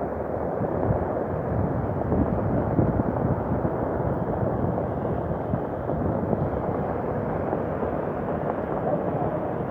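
Heavy rainstorm: a steady, loud rushing noise that holds at one level throughout.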